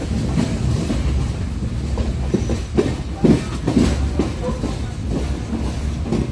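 Passenger train running along the track, heard from inside the coach: a steady low rumble with irregular clickety-clack of the wheels over rail joints, the loudest knocks about three to four seconds in.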